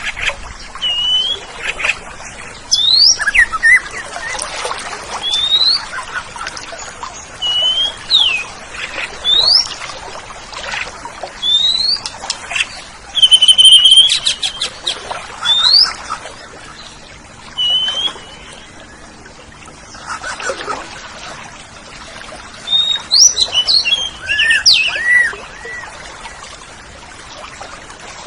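Oriental magpie-robin (kacer) singing: clear whistled notes, many sweeping upward, repeated every second or two, with a louder harsh phrase about halfway through and a quick run of varied notes near the end.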